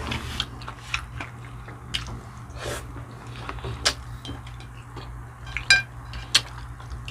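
Eating sounds: cutlery clicking and clinking on a plate, with biting and chewing, in scattered sharp clicks. One clink rings briefly near the end. A steady low hum runs underneath.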